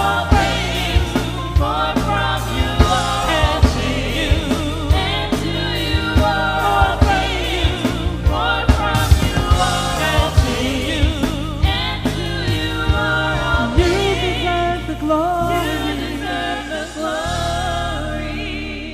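Live gospel worship music: a choir and singers with a band, bass and regular drum strikes. Near the end the drums drop out, a final sung chord is held with vibrato, and it fades out.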